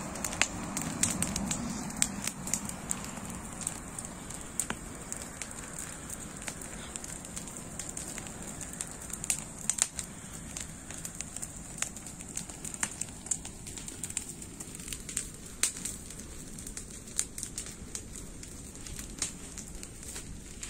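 A bonfire of cut branches and garden debris burning, the wood crackling with irregular sharp pops and snaps over a steady high hiss.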